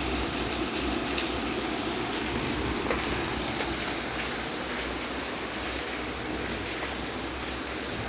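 Steady rushing hiss of water in continuous rain.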